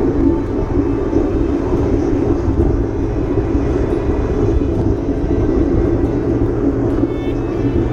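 Steady rumble of wind and road noise from a moving bicycle ride, continuous and fairly loud.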